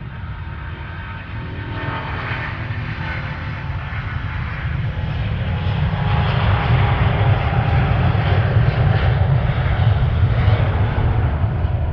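Airliner's jet engines growing louder over about six seconds as the aircraft comes close, then staying loud, a deep rumble under a broad hiss.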